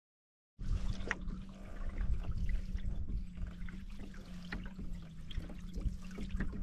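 Canoe paddling: water trickling and splashing off the paddle with each stroke, starting suddenly about half a second in, over a steady low hum and rumble.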